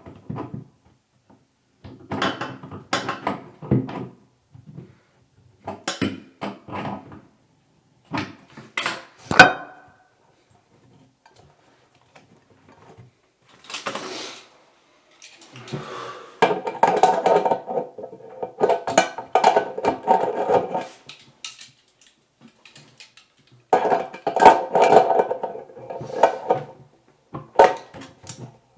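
Metal clinks and knocks of a crescent wrench working the toilet's supply-line fittings, with one sharp knock about nine seconds in. Later come two longer stretches of a denser, more continuous sound.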